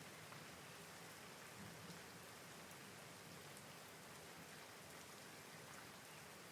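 Faint, steady rain falling, with scattered drops pattering on a surface.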